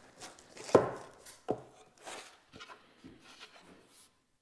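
Plywood cabinet panels being handled: a few light wooden knocks and some rubbing as the panels are moved, the loudest knock under a second in.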